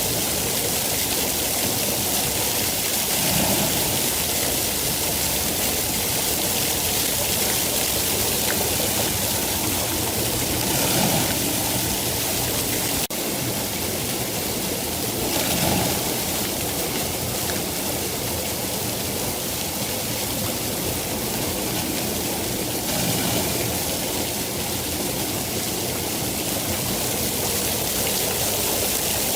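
Steady rain falling, an even hiss of water with no pause.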